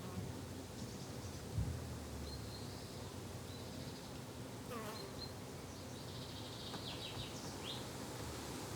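Garden ambience with insects buzzing under a steady background hiss, a few short high chirps, and a brief low thump about a second and a half in.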